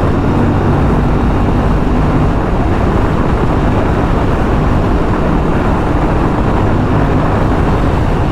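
Aprilia RS 457's 457 cc two-cylinder engine running as the bike rides along, its note partly buried under a steady rush of wind noise on the rider's microphone.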